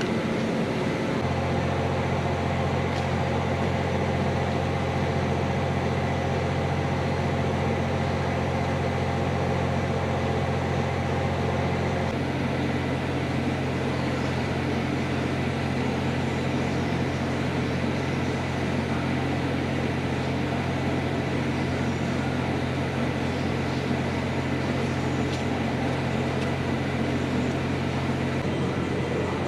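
Steady low mechanical hum that sets in about a second in and holds even throughout.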